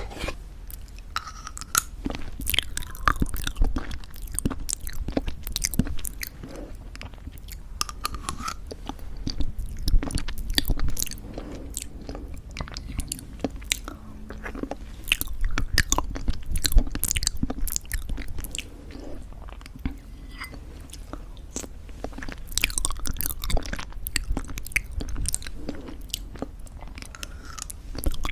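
Close-miked chewing of homemade granola in thick yogurt: a dense, irregular run of crisp crunching clicks.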